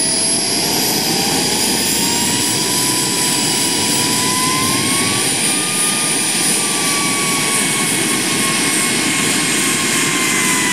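Radio-controlled model jet's engine running loud and steady, with a high whine that drifts slowly up and down in pitch.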